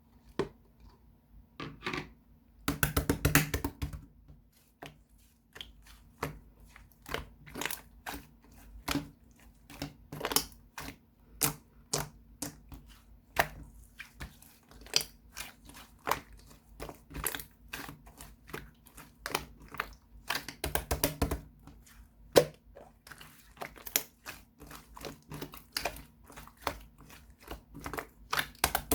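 Slime being squeezed, poked and stretched by hand: a steady run of sharp clicks and pops, with denser crackling squishes about three seconds in and again around twenty-one seconds.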